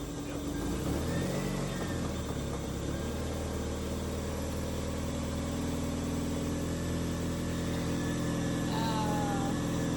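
Toyota 2ZZ-GE 1.8-litre inline-four engine, freshly swapped into an MR2, idling steadily. Its pitch shifts briefly about a second in, then settles.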